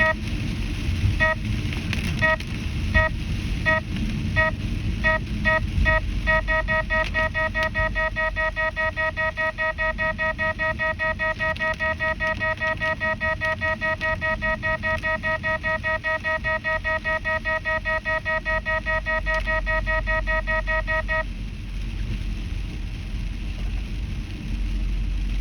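Radenso Pro M radar detector sounding a Ka-band alert: beeps that start about a second apart and speed up over the first six seconds, then run fast and steady as the signal strengthens, stopping about 21 seconds in. Car road noise runs underneath.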